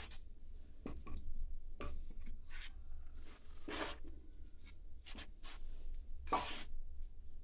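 Dry oak firewood logs being handled and set onto a stack: irregular wooden knocks and scrapes, the loudest a little under four seconds in and again about six and a half seconds in, over a steady low hum.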